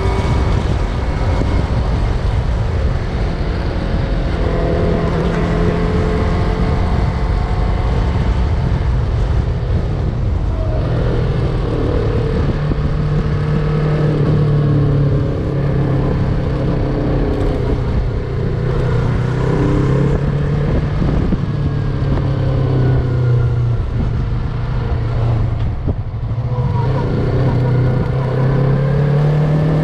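Yamaha MT-03 motorcycle engine running while the bike is ridden. Its pitch steps and glides up and down with throttle and gear changes, over a constant low rushing noise.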